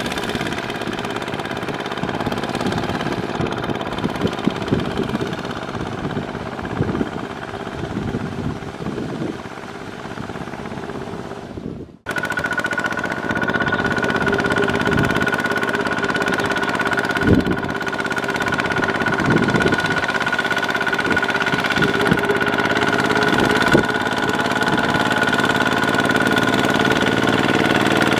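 Kubota ZT140 single-cylinder diesel engine on a two-wheel tractor, running hard while plowing, with irregular knocks and clunks. The sound breaks off for an instant about twelve seconds in, then resumes with a steady high whine on top.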